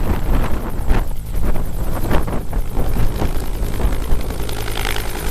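Bell UH-1 "Huey" helicopter running, its two-blade main rotor beating steadily over the whine of its turbine engine.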